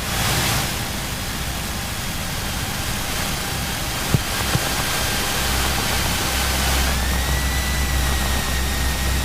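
Cessna 172's piston engine and propeller running at taxi power, heard from inside the cabin with a steady hiss; about seven seconds in the engine note rises a little as power is added. A small click about four seconds in.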